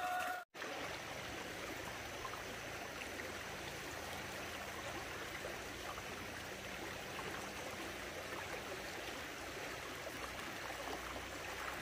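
Flowing water running steadily, like a stream, after a brief break about half a second in.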